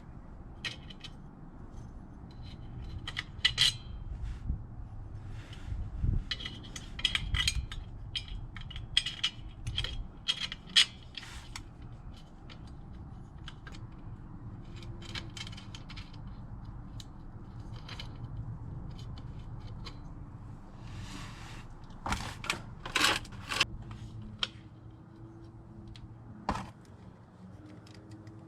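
Small metal parts and tools clinking, tapping and scraping as they are handled, in irregular clusters of sharp clicks, over a steady low hum.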